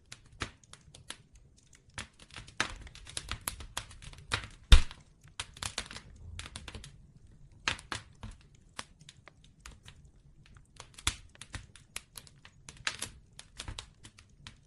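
Wood bonfire crackling: irregular sharp pops and snaps over a faint low rumble, with one loud pop about five seconds in.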